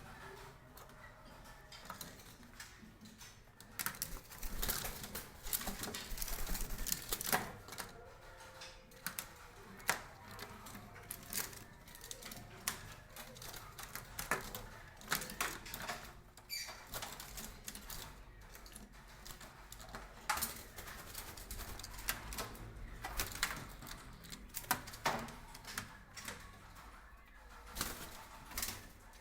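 Wild hill mynas in their cages: irregular clattering and scratching against the cage bars, with short harsh calls now and then.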